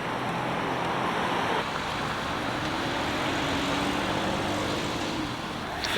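Steady street traffic noise, with a vehicle's engine hum holding for a few seconds in the middle.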